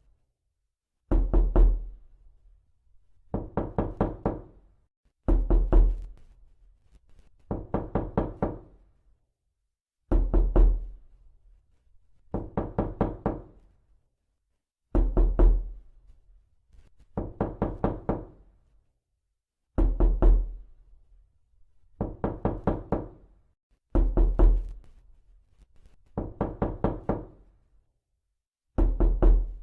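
Repeated knocking, made to sound like someone at a door for a prank. It comes in quick bursts of about five sharp knocks, roughly every two seconds, with some bursts louder than others.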